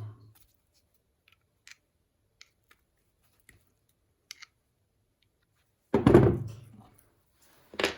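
Small metal parts and hand tools handled on a workbench: a few faint clicks, then a loud thump about six seconds in and a sharp click near the end.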